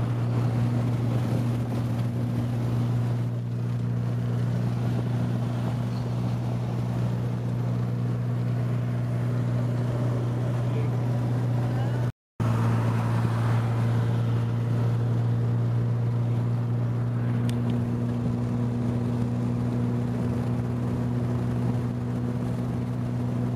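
In-cabin drone of a 1986 Nissan 200SX S12's CA20E four-cylinder engine cruising at a steady highway speed, a constant hum over road noise. The sound cuts out for a split second about halfway through.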